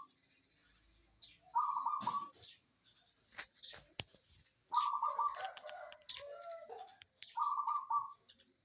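Zebra dove (perkutut) singing: three short, rapidly pulsed coo phrases spaced about three seconds apart. A few sharp clicks fall between the first two, and there are faint high chirps.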